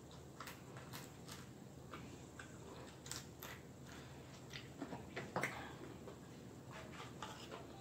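Faint eating sounds close to the microphone: chewing fried fish, with scattered short lip smacks and mouth clicks and a few louder smacks about five seconds in.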